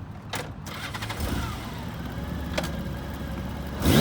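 Honda Gold Wing's 1800cc flat-six engine starting up about a second in and idling, then revved with a throttle blip near the end.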